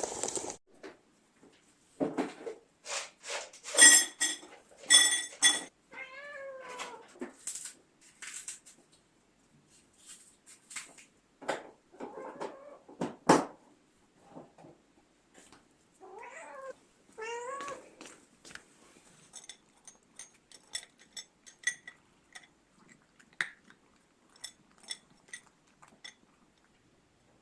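A cat meowing in two short runs of bending, drawn-out meows, about six seconds in and again about sixteen to eighteen seconds in. Scattered sharp clicks and knocks run between them, the loudest a single knock about thirteen seconds in.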